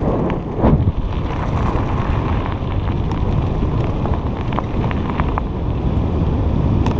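Wind buffeting the microphone of a moving bicycle rider, a steady low rumble, with a few faint clicks and rattles here and there.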